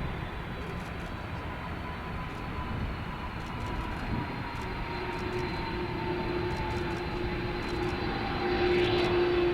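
Jet engines of a UPS McDonnell Douglas MD-11F trijet freighter slowing on the runway after landing: a steady rush of engine noise with a faint whine that slowly falls in pitch. A second steady, lower tone joins about five seconds in and grows louder near the end.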